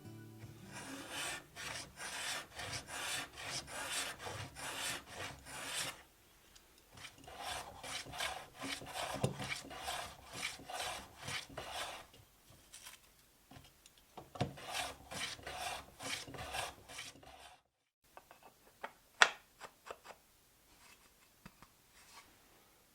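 A hand tool or abrasive worked back and forth over wood in steady strokes, about two a second, in three runs with short pauses between them. After a sudden cut come a few light knocks and clicks, one of them sharper.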